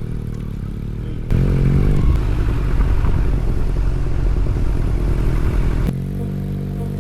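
Kawasaki Z900's inline-four engine running on the move. It gets louder a little over a second in, then drops back to a steadier note near the end.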